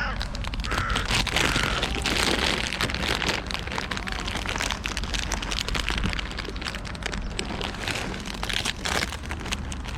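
Nuts being poured out and scattered onto the ground: a long, dense run of small clicks and crinkling.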